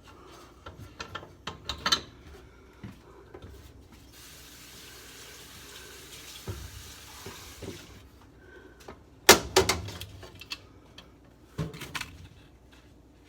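Metal clicks and knocks of wrenches and fittings being handled while a gas furnace valve is disconnected, with a few seconds of steady hiss in the middle and two louder knocks near the end.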